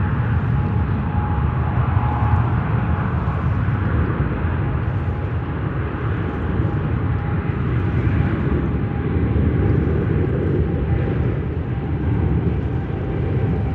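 Boeing 777's GE90 turbofan engines at takeoff thrust: a loud, steady jet rumble with a faint steady whine above it.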